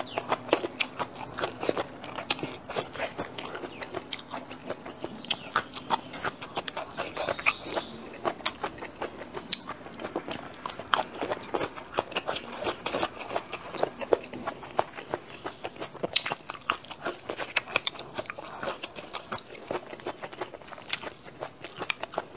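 Close-miked chewing and biting into braised bamboo shoots: a rapid, irregular run of crisp crunches and mouth clicks.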